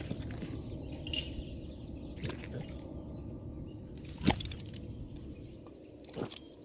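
Steady low outdoor background noise with a few faint, short clicks or taps; the clearest comes about four seconds in.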